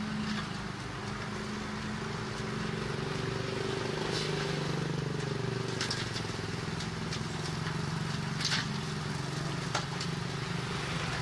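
A heavy earthmoving machine's diesel engine running steadily. Its pitch rises and falls briefly around the middle, and a few sharp clanks are heard in the second half.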